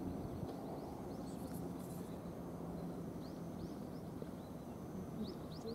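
Small birds chirping in short rising notes, a few quick groups of two or three, over a steady low background rumble.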